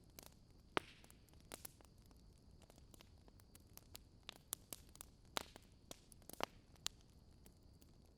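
Wood fire crackling softly: irregular sharp snaps and pops of different strengths over a faint steady hiss, with a few louder snaps about a second in and again in the second half.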